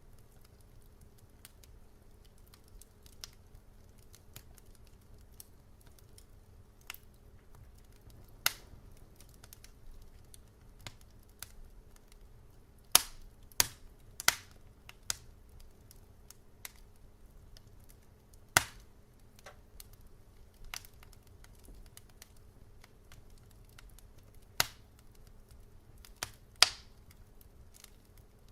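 Wood fire crackling in a fireplace: irregular sharp pops and snaps, a few louder ones clustered near the middle and near the end, over a faint steady low hum.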